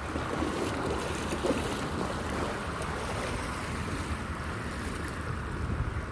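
Lake water washing against the shore, with wind rumbling on the phone's microphone.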